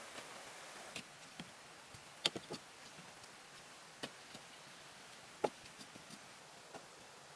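Scattered light clicks and taps over a faint steady hiss, the two loudest about two and five and a half seconds in.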